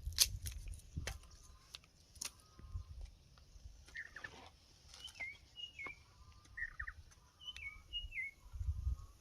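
Small birds chirping, a series of short hooked calls repeated from about four seconds in, with a few sharp knocks and clicks in the first couple of seconds and a low rumble near the end.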